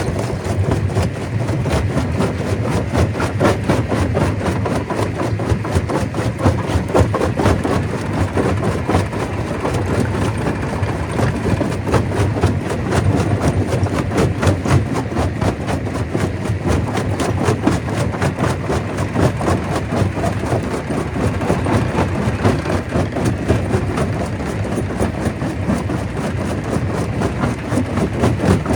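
Stone crusher running steadily under a heavy machine drone, with a dense, irregular clatter of rock being broken and no let-up.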